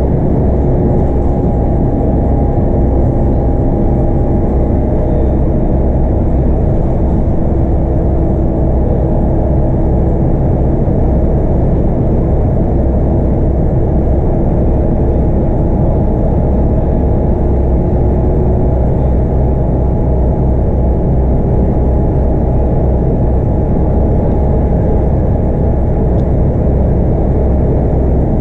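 Heard from inside the bus: a Scania K230UB's 8.9-litre five-cylinder DC9 diesel running at a steady cruise, with a continuous low rumble of engine and road noise and a few faint, slowly drifting whine tones.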